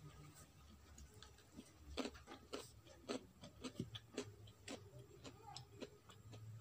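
Close-mic eating sounds: a person chewing food, with faint, irregular wet mouth clicks and smacks about two a second over a low background hum.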